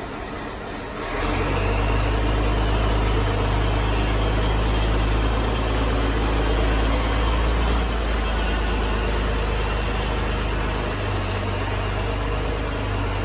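A vehicle engine running steadily with a low drone, louder from about a second in.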